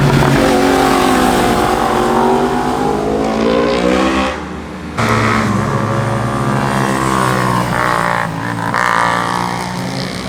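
Sport motorcycle engine accelerating, its pitch climbing, breaking off about four seconds in and again near eight seconds, then climbing again.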